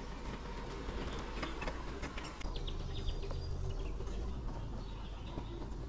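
Subaru Forester driving slowly over a rough bush track: a steady low rumble with scattered clicks and rattles, busiest in the middle of the stretch.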